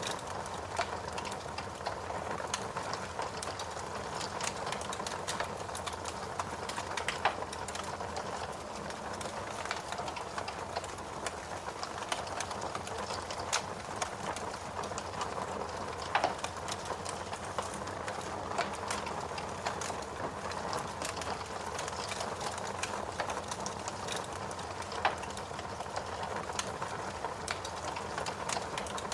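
Wood fire crackling and popping in a fireplace over a steady hiss of rain, with a few louder pops.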